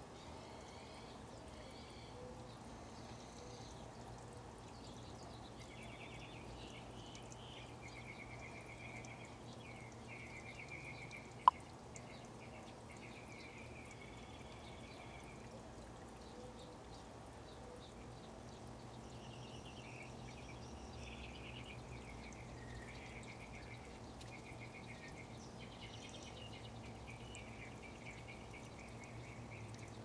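Backyard songbirds singing, with repeated short chirps and trills over a steady low hum of outdoor background noise. A single sharp click stands out about eleven seconds in.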